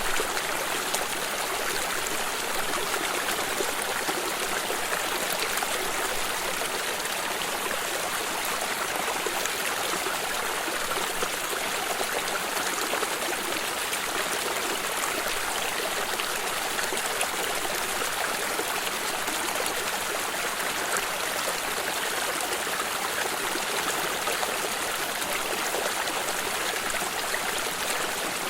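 Stream water flowing and trickling, a steady even rush with no pauses.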